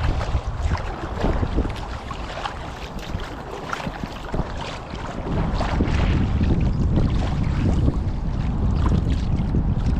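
Wind buffeting the microphone in gusts, easing for a few seconds in the middle and picking up again about halfway through, over small splashes and drips of water from kayak paddling.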